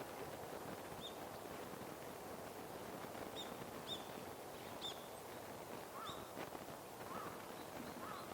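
Wild birds calling outdoors: several short, high chirps scattered through, and from about six seconds in three short, lower calls, over a steady background hiss.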